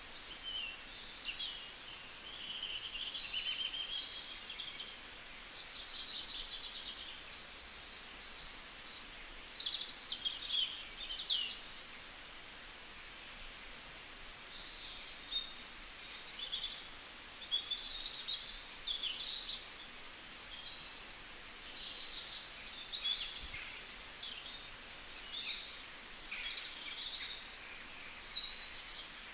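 Birds chirping and twittering throughout, a dense chorus of short high calls and quick trills, some gliding up or down, over a faint steady hiss.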